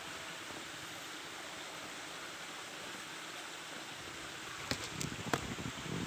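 A small creek flowing with a steady rushing sound, with a few sharp clicks and knocks near the end.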